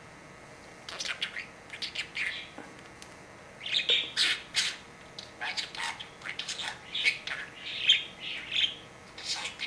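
Pet budgerigar chattering: a quick, continuous run of high chirps and squawky warbles, the bird's talking-style chatter, starting about a second in.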